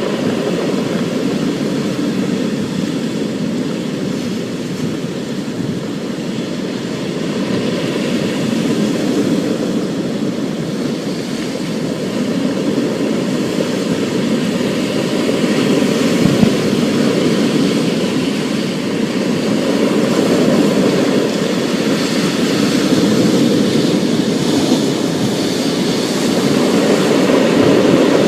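Thunderstorm ambience: a steady rush of heavy rain with a deep rumbling undertone, slowly growing louder toward the end.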